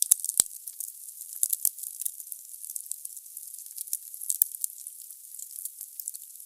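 Wood fire burning in a fireplace: a steady hiss of the flames with frequent crackles and pops from the burning logs, the sharpest pops just after the start and at about four and a half seconds.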